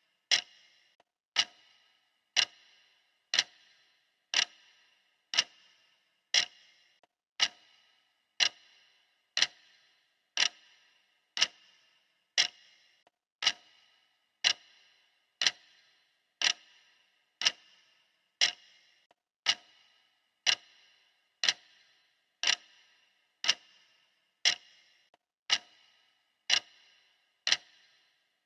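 Clock ticking steadily, one sharp tick every second, each with a short ringing tail.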